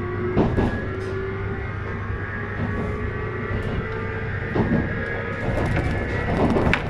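JR East 719 series electric train accelerating, heard from inside the car: a whine rising slowly and steadily in pitch over the running noise, with a few knocks from the wheels. The title marks this car as one with an unusual running noise.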